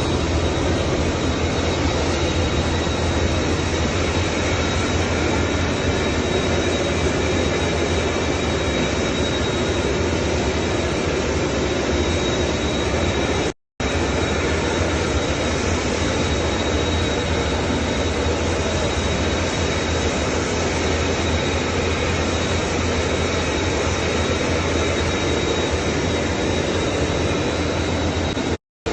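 Jet aircraft engines running steadily: a constant dense rush with a thin high whine over a low hum. The sound cuts out for a split second midway and again near the end.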